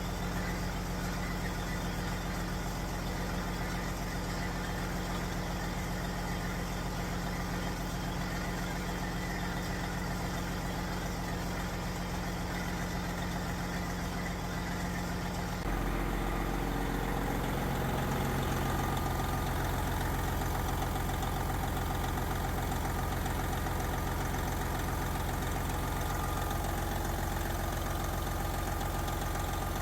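Detroit Diesel Series 60 12.7-litre six-cylinder diesel engine idling steadily. About halfway through, the sound changes abruptly and stays slightly louder.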